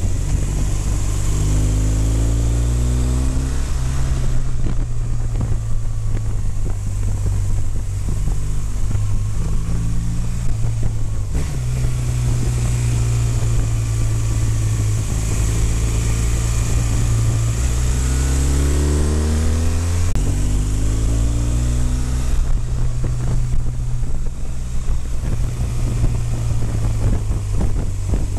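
BMW motorcycle engine running under way through bends. Its pitch climbs as the bike accelerates and drops back at gear changes, around the start and again about two-thirds through, with steady wind rush on the microphone.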